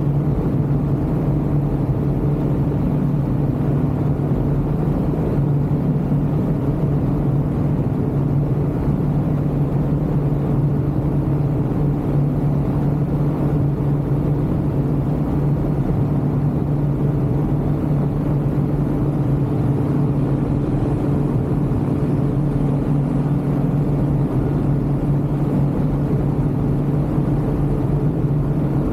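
Ultralight aircraft engine running at a steady power setting in flight: a constant drone that holds one pitch.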